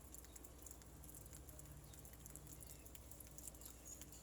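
Faint rain pattering, scattered light drips and taps over a low steady hum.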